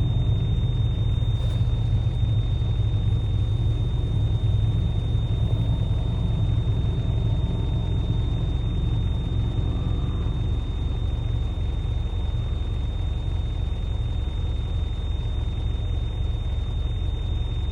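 Isuzu NPR box truck engine idling steadily, a low, even rumble. A faint steady high tone sits above it.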